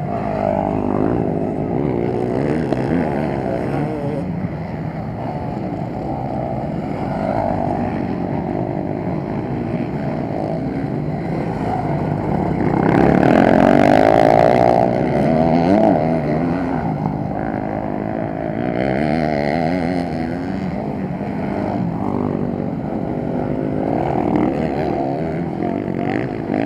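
Motocross bikes racing: several off-road motorcycle engines revving up and down together, with one passing close and loudest about halfway through.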